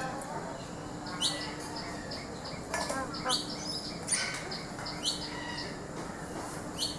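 Several birds chirping in short, scattered bursts of high calls, over a steady low hum.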